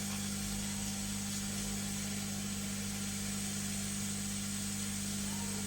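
Steady electrical hum pitched on the mains with an even airy hiss from running soldering-bench equipment, unchanging throughout.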